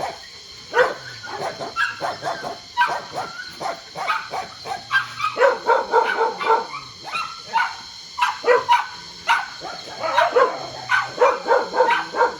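Many dogs barking over and over, the barks overlapping, with the busiest stretches in the second half.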